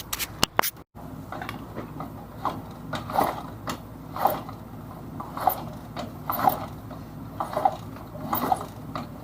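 Kick-starter and ratchet of a 1965 Honda CB77 Superhawk's 305 cc parallel twin being worked over and over, about once a second, turning the engine over without it firing during a spark check that finds no spark.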